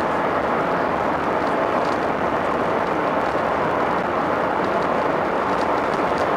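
Steady rushing roar inside an Airbus A380-841's passenger cabin during the landing roll just after touchdown: engine and runway noise at an even level.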